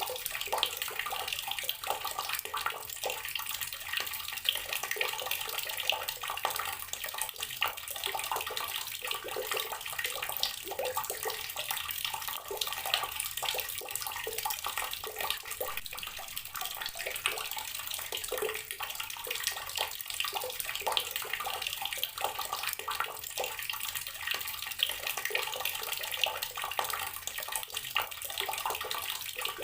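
Water running from an outdoor tap and splashing steadily, a continuous patter of small irregular splashes.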